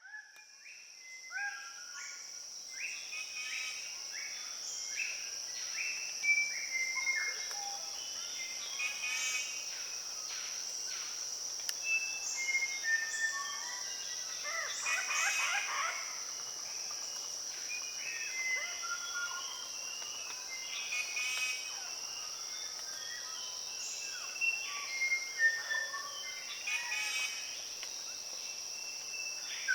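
Tropical forest dawn chorus, birds of paradise among many birds calling with short whistles, chirps and notes, over a steady high-pitched drone. It fades in at the start.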